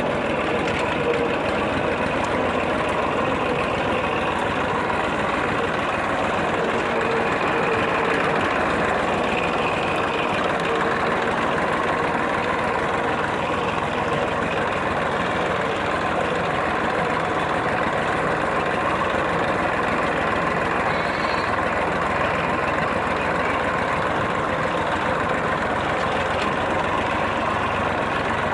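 Massey Ferguson tractor's diesel engine running at a steady speed while the tractor is driven, a dense even drone that holds the same level throughout.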